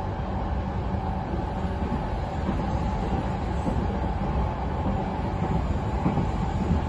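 Running noise of an electric commuter train heard inside the passenger car at speed: a steady rumble of wheels on the rails with a faint steady whine, growing slightly louder near the end.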